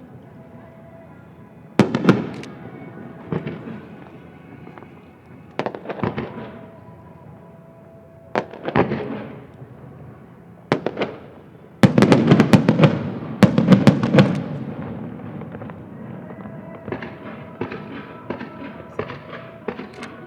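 Fireworks shells bursting over a harbour, each a sharp bang with an echoing tail, coming every couple of seconds. A dense volley of bursts follows about halfway through, then a lighter, rapid crackling near the end.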